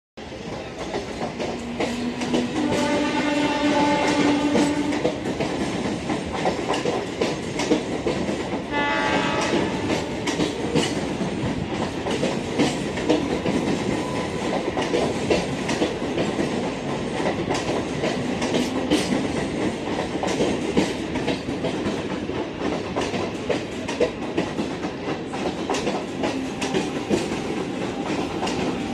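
Mumbai suburban electric multiple-unit train sounding its horn, a long blast that steps up in pitch a couple of seconds in, then a second, shorter blast about nine seconds in. Throughout, the steady rumble and clickety-clack of the train's wheels running over rail joints.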